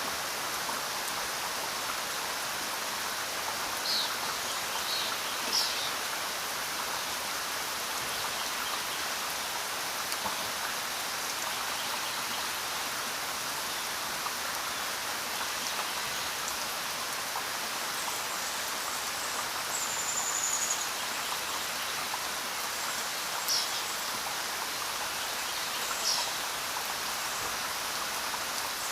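Steady rainfall, an even hiss of rain on the ground and foliage, with a few sharper single drops standing out here and there and a brief high chirp about two-thirds of the way through.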